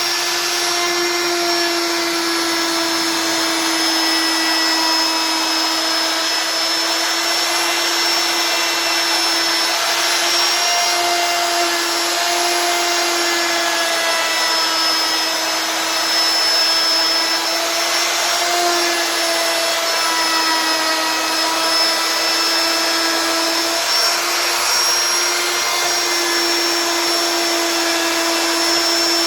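CNC router spindle whining steadily as it carves wood, its pitch dipping slightly now and then as the cut loads it.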